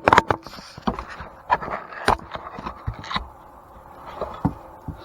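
Irregular knocks and clatter of antique grain mill parts and tools being handled, a quick cluster in the first second, then scattered strikes, with a couple more near the end.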